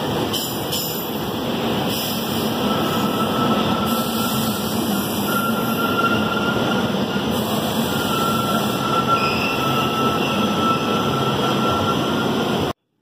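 SEPTA push-pull train of Comet coaches and an ACS-64 electric locomotive rolling past along the platform, a steady rumble of wheels on rail with a faint high squeal through the middle. The sound stops abruptly near the end.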